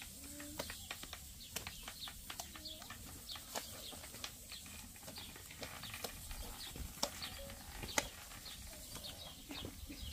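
Small birds chirping repeatedly in short, quick, high chirps, with faint scattered clicks and scrapes.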